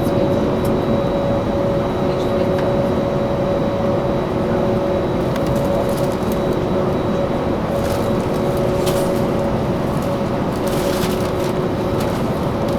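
Jet aircraft engines running steadily, a constant rumble with two steady hums through it.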